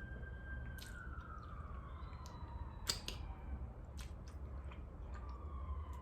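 Close-miked chewing with sharp wet mouth clicks. Behind it a faint siren holds its pitch, then slowly falls.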